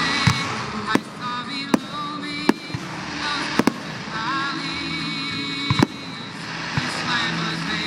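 Fireworks display: a string of sharp bangs from shells bursting at irregular intervals, with music playing underneath.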